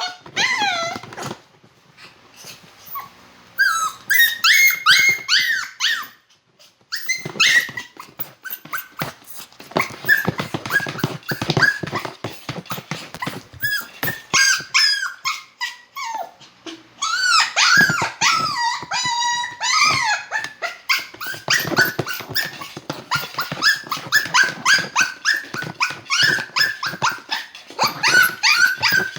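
Poodle whining in quick runs of short, high-pitched cries that bend up and down in pitch, with brief pauses about two and six seconds in.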